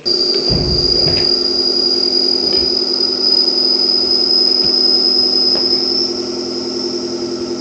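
A motor running at a steady speed with a constant high whine, cutting in suddenly.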